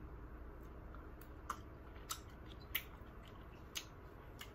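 Faint eating sounds through a laptop's built-in microphone: about half a dozen small sharp clicks of chewing, spaced irregularly, over a low steady hum.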